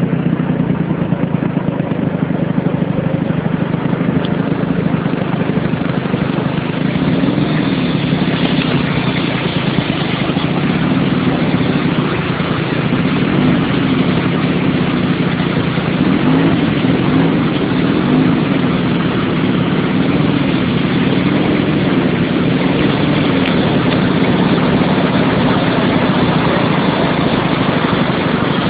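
Motorcycle engine running steadily, its pitch wavering gently up and down over a constant rush of noise.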